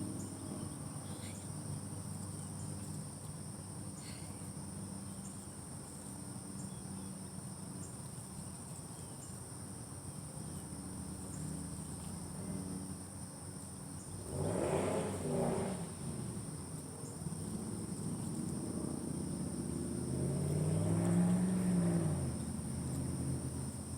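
Steady high-pitched chorus of crickets over a low rumble. The rumble swells twice with a bending pitch, once near the middle and again toward the end.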